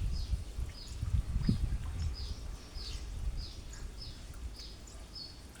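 A small bird calling over and over in short, falling chirps, evenly spaced about every two-thirds of a second. A low rumble sits under the first couple of seconds.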